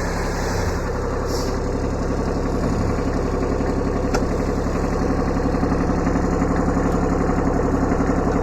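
Kubota B7100 compact tractor's three-cylinder diesel engine idling steadily at low throttle, with one faint click about four seconds in.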